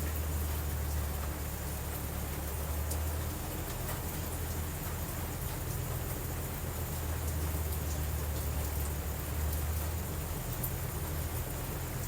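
Steady rain, with a low rumble of distant thunder that swells twice.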